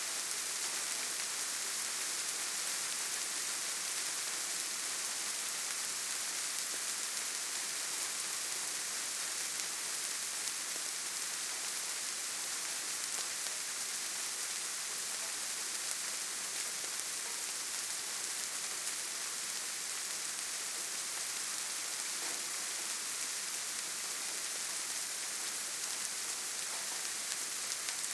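Steady rainfall in a forest: an even, unbroken hiss of rain with no distinct drops, thunder or other events standing out.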